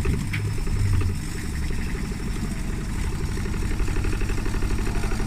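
Indesit washing machine spinning with its door open: a low mechanical rumble with a fast, even pulse from the drum and motor. The motor's carbon brushes are worn and need replacing.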